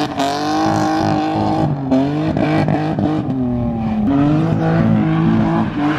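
BMW E36 drift car engine held high in the revs, dipping briefly about two and four seconds in and picking back up.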